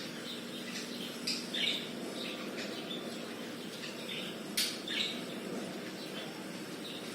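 Birds chirping and squawking in short scattered calls, two of them sharper and louder, about a second in and again past the middle, over a steady low hum.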